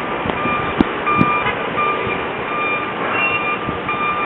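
Truck's reversing alarm beeping: a single-pitched beep repeating evenly, roughly every three-quarters of a second, over steady background noise.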